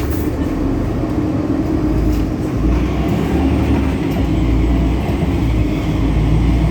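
A DAF Paccar PR265 six-cylinder diesel in a Solaris Urbino 18 articulated bus running under way, with the loud belt noise typical of this engine. The engine sound grows stronger about two and a half seconds in.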